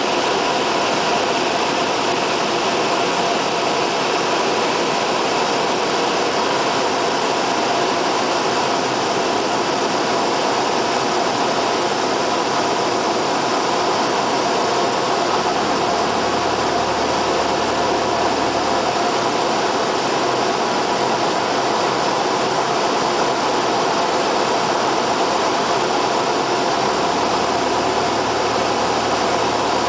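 Cessna 172R's four-cylinder Lycoming engine and propeller running with a steady drone, at a constant level and pitch.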